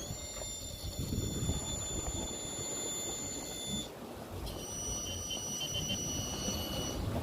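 High-pitched electric whine of an RC crawler's 3Brothers Yellow Jacket 2000kv brushless motor and Mamba X ESC under throttle, holding a nearly steady pitch. It cuts out briefly a little before the four-second mark and comes back. Under it is a low, rough rumble.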